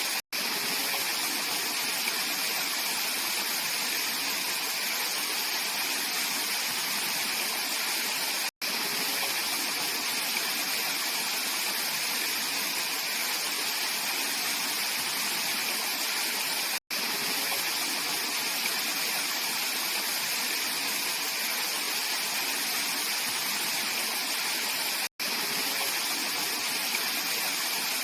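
Mountain valley stream flowing: a steady rush of water, with a brief dropout to silence about every eight seconds.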